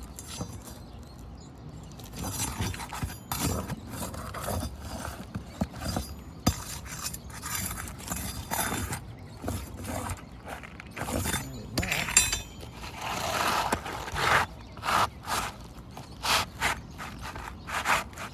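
Irregular scraping, rustling and knocking of hands and tools working asphalt roof shingles, with a longer scrape about two-thirds of the way through.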